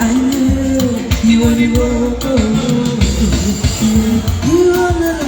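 Live band music: a voice sings a melody in held, gliding notes over a heavy bass line and steady drum beats.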